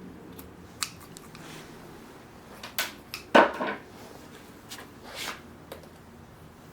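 A series of separate clicks and knocks from tools being handled, the loudest about three and a half seconds in.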